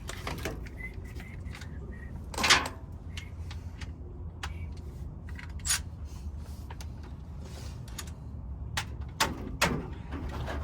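Hand tools and metal engine parts clinking and knocking during work on the timing-chain end of an LS V8: scattered light clicks and a few sharper knocks, the loudest about two and a half seconds in, over a steady low hum.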